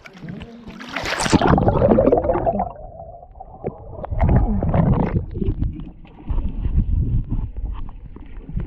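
Sea water splashing and gurgling close around the microphone, with a loud splash about a second in and then rough, irregular sloshing surges, as a person gets into the sea.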